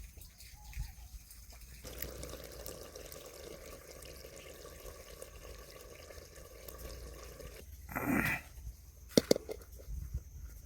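Liquid being poured in a steady stream that starts about two seconds in and stops near eight seconds, followed by a short louder burst and a couple of sharp knocks.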